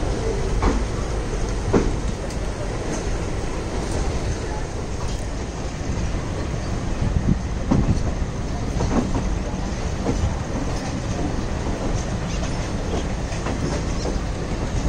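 Passenger train running along the track: a steady rumble of the coaches, with the wheels clicking and knocking at irregular intervals over rail joints.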